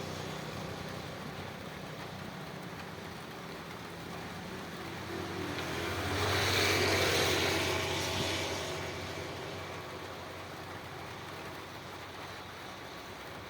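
Steady rain with an engine passing: the engine sound swells to its loudest about halfway through, then fades away.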